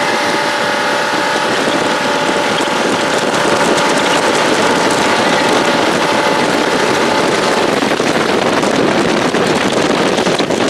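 Jet boat running at high speed, with a loud, steady rush of wind and spray on the microphone. The engine's tone can be heard under it at first and is lost in the wind about eight seconds in.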